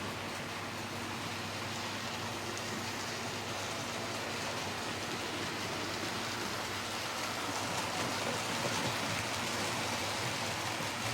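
Model LNER A4 locomotive running on model railway track, a steady rushing noise of motor and wheels that grows a little louder about eight seconds in.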